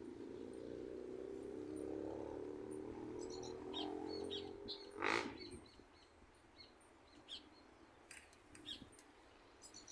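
Small birds chirping, with short high calls scattered throughout. Over the first five seconds a steady low hum with several tones sits underneath, and about five seconds in comes one loud, short call.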